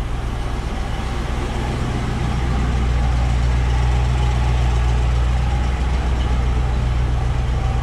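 Range Rover Classic's V8 engine idling through a newly fitted exhaust system, a steady deep idle that grows a little louder about three seconds in.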